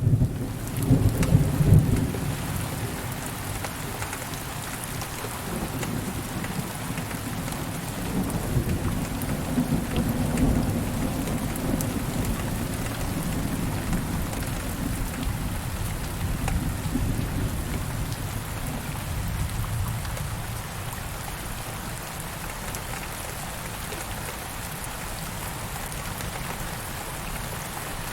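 Steady heavy rain with rolling thunder: a loud rumble about a second in, another around ten seconds in, then the thunder dies away, leaving the rain.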